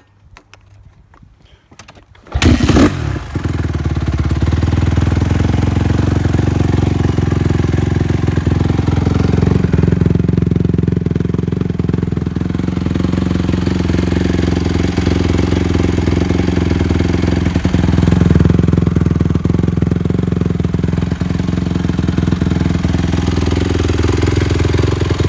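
Honda CRF150R's single-cylinder four-stroke engine, through a Yoshimura exhaust, firing up from cold about two seconds in, then running steadily at idle with slight rises and dips in pitch.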